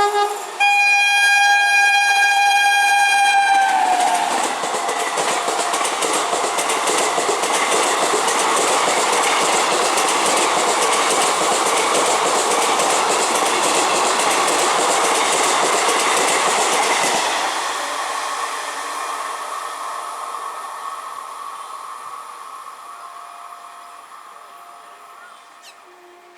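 A train passing at speed: its horn sounds as it approaches and drops in pitch as it goes by, then a long loud rush of wheels and coaches that fades away over the last several seconds.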